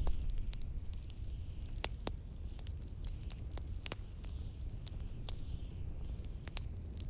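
Wood fire crackling, with irregular sharp pops over a steady low rumble, and a faint hiss of wind that swells and fades behind it.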